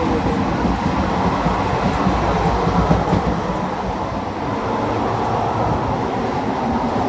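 Passenger train running at speed: a steady noise of wheels on the rails and the moving coach.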